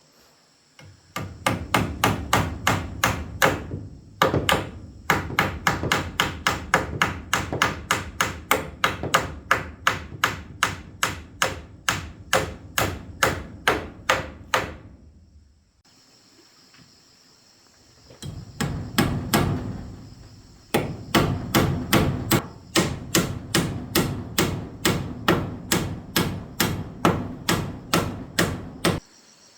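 Hammer blows in a fast, steady rhythm of about three a second, in two long runs with a short break in the middle; the second run ends abruptly.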